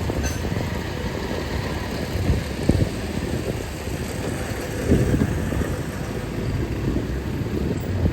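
Street traffic of motorbike engines running and passing: a steady low rumble, with slightly louder swells about three and five seconds in.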